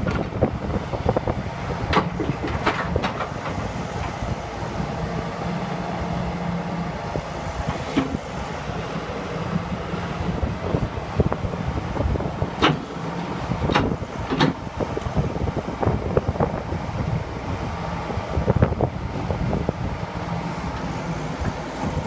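Ingersoll Rand ZX125's diesel engine running steadily, with a few sharp metallic clanks and squeaks over it, twice in clusters.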